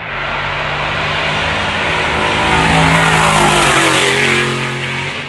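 Loud V8 exhaust of a Ford Mustang 5.0, swelling to a peak about three seconds in with its pitch sliding down, then easing off.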